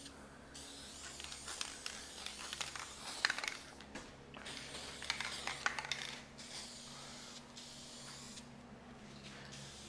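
Aerosol spray paint can spraying, an even hiss lasting about six seconds with a few light clicks, then stopping.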